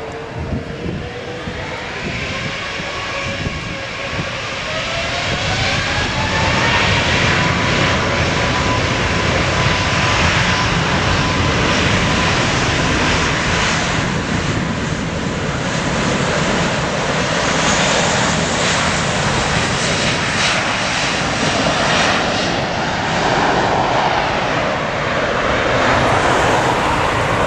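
Airbus A380's four turbofan engines at takeoff power: whines rising in pitch over the first few seconds, then loud, steady jet noise.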